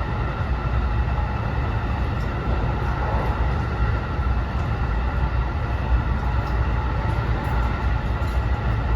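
Interior running noise of a JR West 207 series commuter train car at steady speed. There is a dense low rumble of wheels on rails, with a steady whine that holds one pitch.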